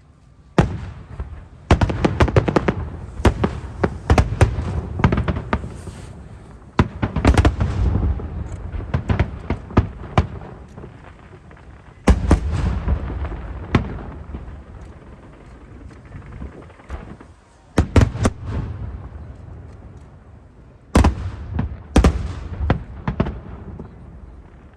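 Aerial firework shells bursting in volleys: clusters of sharp bangs and crackles, each followed by a low rumble, with short lulls between the volleys.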